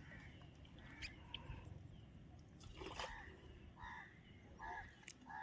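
Faint bird calls: short calls repeated about half a dozen times over a few seconds, with a few light clicks.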